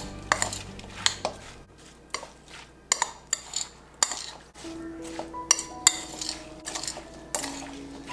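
Dishes and metal cutlery clinking and knocking, about a dozen short irregular clinks, over soft background music with held notes.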